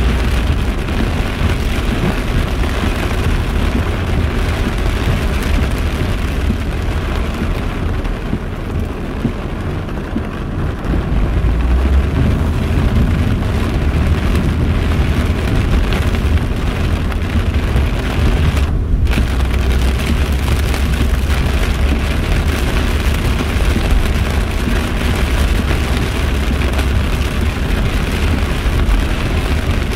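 Heavy rain pelting a car's roof and windshield, heard from inside the cabin, over a steady low rumble that grows louder about twelve seconds in.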